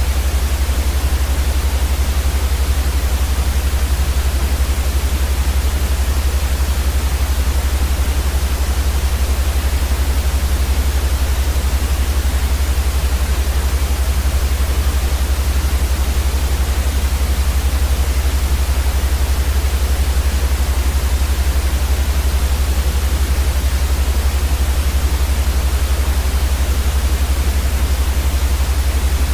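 Steady white noise played for a baby's sleep: an even, unchanging hiss with a strong deep rumble underneath.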